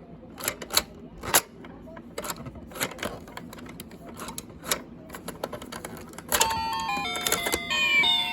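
Irregular sharp clicks and taps for about six seconds, then an electronic jingle of stepping notes begins.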